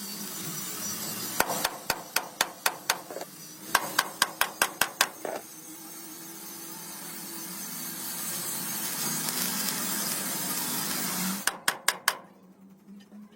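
Hammer blows on metal during a truck chassis frame repair: quick runs of sharp strikes, about four a second, three runs in all, with a steady hiss between them that swells in the middle.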